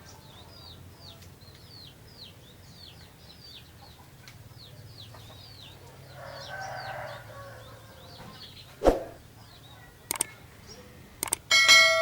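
Small birds chirping in a rapid run of short, high, falling chirps, with a brief clucking patch about six seconds in. Near the end comes a loud knock, a couple of clicks, and then a ringing metallic clang.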